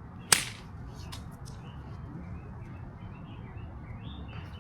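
A 7-iron strikes a golf ball with one sharp crack about a third of a second in. Birds chirp faintly throughout.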